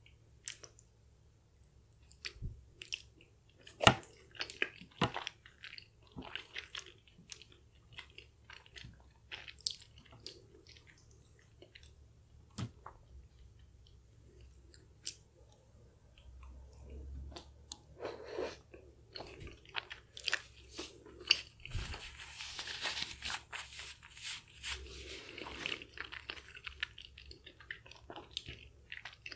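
Close-miked chewing and biting of chewy Korean spicy rice cakes (tteokbokki), with sticky, wet mouth sounds and many short, sharp clicks, the loudest about four seconds in. The sounds grow busier and denser a little past two-thirds of the way through.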